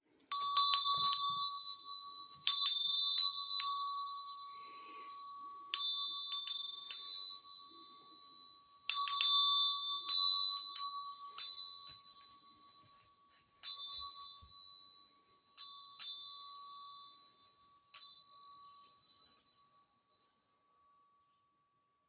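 Small metal bells struck repeatedly in quick clusters, each strike ringing out and dying away over a steady lower ringing tone. Later the strikes thin to single, softer ones and fade out.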